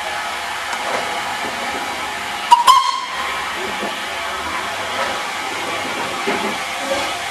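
Steam locomotive, the 0-8-0 'Super D' 49395, hissing steam steadily, with one short whistle toot about two and a half seconds in.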